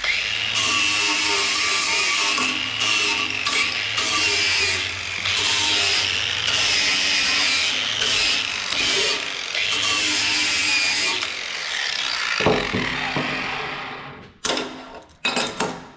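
Electric sander running against steel, grinding the powder-coat paint off snowblower parts to bare metal for welding: a steady motor whine over the rasp of the abrasive, wavering as the pressure changes. It winds down about fourteen seconds in, followed by a couple of sharp clunks.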